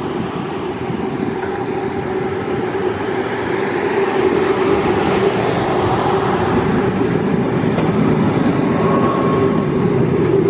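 A train running on the rails, growing louder over the first few seconds and then holding steady. A constant hum sits under the rushing noise.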